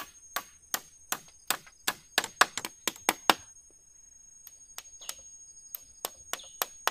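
A fast run of sharp knocks, about three a second, thinning to a few spaced knocks after about three and a half seconds, over a steady high whine.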